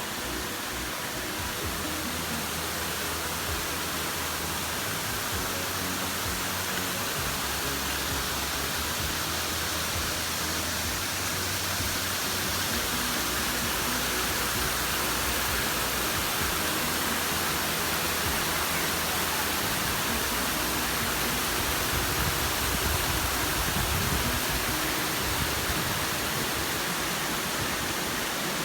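Steady rushing of a waterfall, with faint background music underneath.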